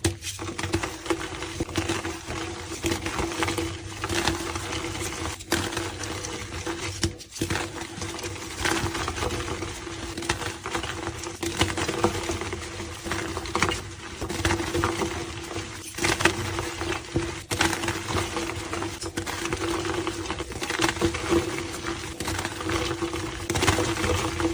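Pink and white gym chalk blocks being crushed, a dense, continuous crumbling crackle broken by a few brief gaps where edited clips join.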